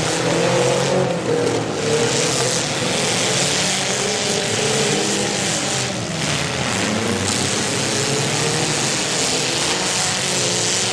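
Several small cars' engines revving hard at once while their wheels spin in mud, in a steady mix of engine notes and noise.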